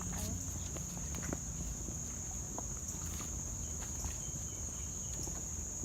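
Steady high-pitched insect chorus, crickets or katydids, with a few faint scattered clicks.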